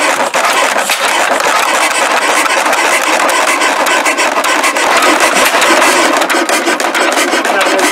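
Early-1900s Hornsby oil engine running fast, with a loud, rough clatter.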